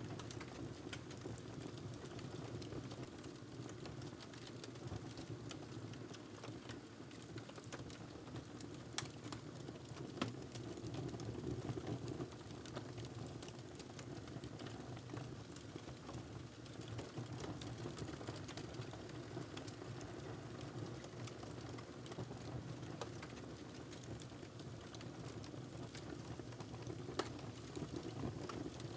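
Wood fire burning in a fireplace: a steady low rushing of the flames with scattered crackles and a few sharper pops.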